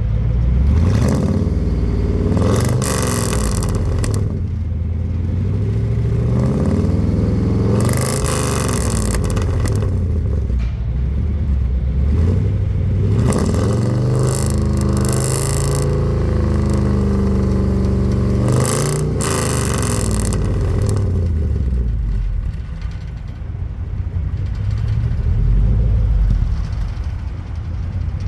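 Microbus engine and exhaust being revved about four times, the pitch rising and falling back each time with a rasp from the exhaust at the top of each rev. It then settles to a steady idle near the end.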